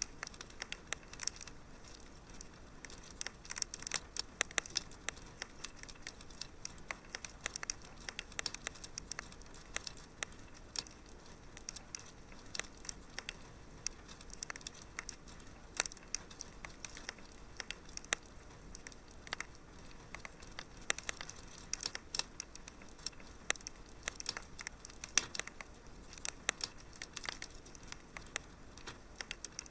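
Wood fire crackling in a fireplace, with a steady run of irregular sharp pops and snaps over a faint hiss.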